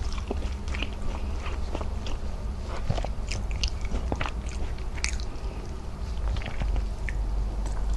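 Close-miked chewing of rice and squid adobo, with many short wet clicks and smacks scattered throughout.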